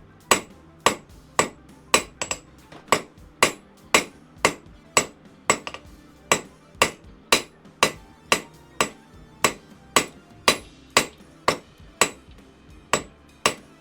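Hand hammer striking hot 5/16 inch round steel bar on an anvil at a steady pace of about two blows a second, drawing out a taper, each blow with a short metallic ring.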